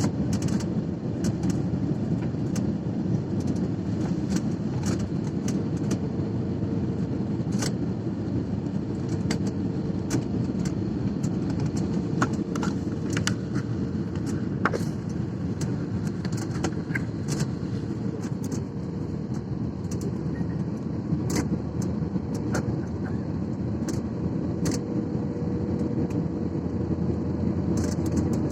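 Airliner cabin noise: a steady rumble from the jet engines and airflow, with a faint steady hum and scattered light rattles and clicks from the cabin interior.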